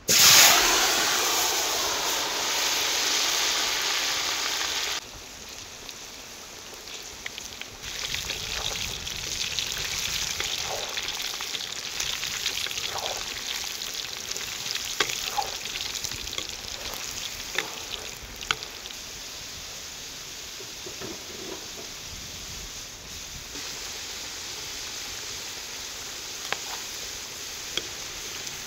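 Potatoes dropped into hot oil in a cast-iron kazan, setting off a loud burst of sizzling that drops sharply about five seconds in. Then a steady frying sizzle, with occasional knocks and scrapes of a wooden spatula turning the potatoes in the pot.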